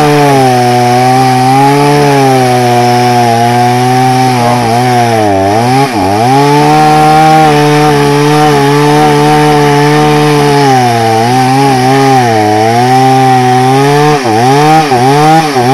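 Two-stroke chainsaw running at high revs while cutting through a log, its engine note sagging and recovering several times as the chain bites into the wood, most deeply about six seconds in and again near the end.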